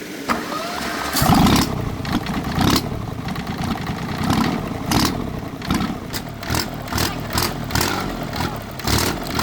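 Engine of a freshly repaired small tractor running, with a loud surge about a second in and then repeated uneven surges in revs and clatter.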